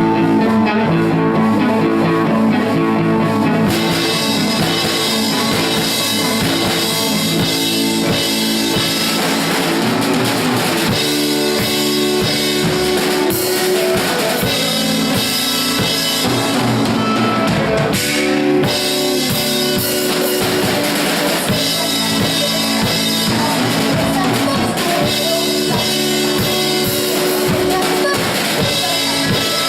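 Rock band playing a song: a drum kit keeping a steady beat under guitar, loud throughout.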